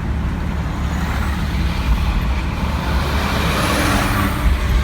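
A 1986 Jeep Cherokee's V6 engine running while the vehicle is driven, over steady low rumble and road noise. The noise swells briefly around three to four seconds in.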